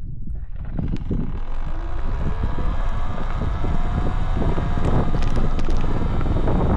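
Electric dirt bike riding along, its motor whine rising in pitch as it speeds up, under heavy wind buffeting on the handlebar-mounted microphone.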